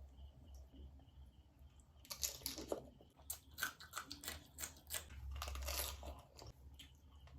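Crisp puri (golgappa) shells crunching as they are bitten and chewed: a quick run of crackles starting about two seconds in.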